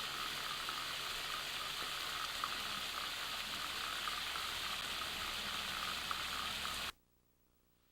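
Waterfall rushing, a steady dense hiss of falling water that cuts off abruptly about seven seconds in.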